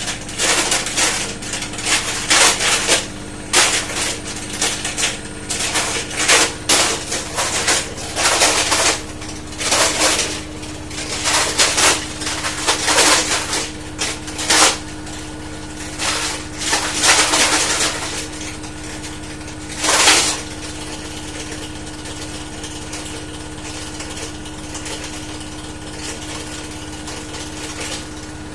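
Siemens washing machine in its final high-speed spin: a steady drum hum with irregular loud clattering and knocking, which dies away about twenty seconds in, leaving only the hum. The noise is a new fault that shows only in the main spin, with the lint filter and pump impeller already checked and clean.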